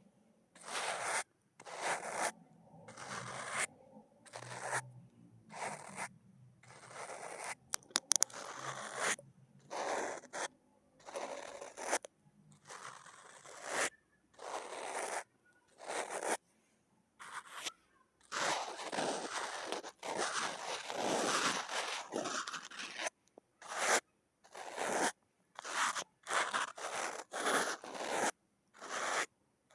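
Fingernails scratching across hard surfaces in short, repeated strokes of about a second each with brief pauses between, a quick run of sharp taps about eight seconds in, and a longer stretch of unbroken scratching past the middle.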